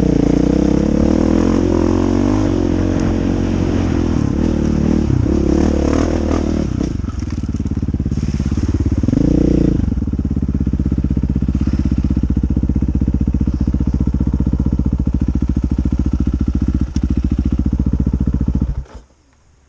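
Dirt bike engine revving up and down as the bike is ridden over the trail, with a quick blip about halfway, then settling to a steady idle for several seconds before the sound stops abruptly near the end.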